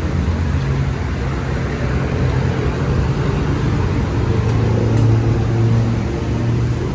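Motor vehicle engine running close by amid road traffic noise, a steady low hum that drops in pitch about four seconds in.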